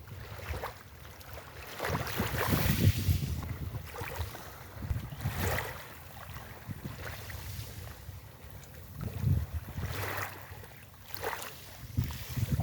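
Sea waves washing onto a beach, swelling and falling back every few seconds, with wind gusting across the microphone.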